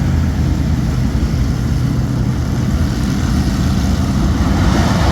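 Ford 422 cubic-inch V8 of a dirt super late model race car, heard on board, running steadily with a low-pitched drone.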